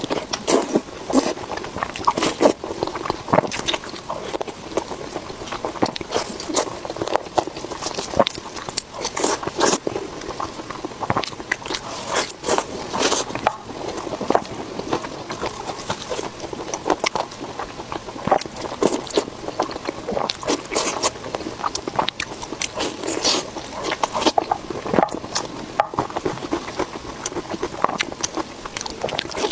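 A person chewing pork belly, a dense run of mouth clicks and crunches that goes on without a break.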